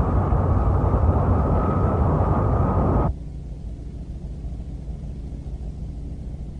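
Cartoon spaceship sound effect: a loud rushing engine roar that cuts off suddenly about three seconds in, leaving a quieter, steady low hum.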